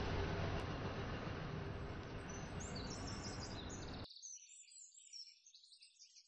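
Birds chirping in short, high calls, starting about two and a half seconds in and fading near the end. Beneath them, a steady noise heavy in the low end fades slowly and then cuts off suddenly about four seconds in.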